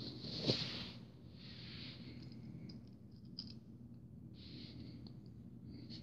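Faint rustling and a few light clicks from handling, with a light knock about half a second in, over a low steady hum.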